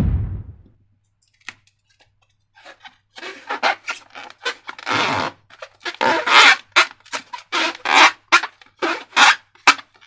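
Slime being squeezed and worked by hand, a run of short wet squelches, about two a second, starting a few seconds in.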